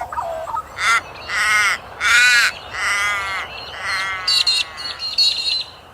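A bird calling: five loud, drawn-out calls about every 0.7 seconds, then a quicker run of shorter, higher-pitched calls near the end.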